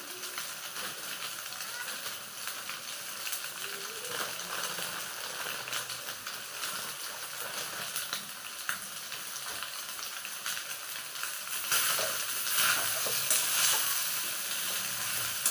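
Soya chunks sizzling as they fry in oil in a metal kadhai. About twelve seconds in, the sound grows louder, with scraping and clinks as a metal slotted spoon stirs them.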